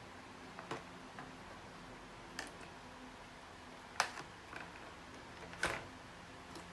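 Five sharp clicks or light taps at irregular intervals, the loudest two in the second half, over a faint steady hum.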